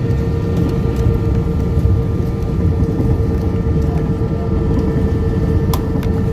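Airliner cabin noise as the plane prepares for takeoff: the jet engines and airframe give a steady low rumble with a constant hum, heard from inside the cabin.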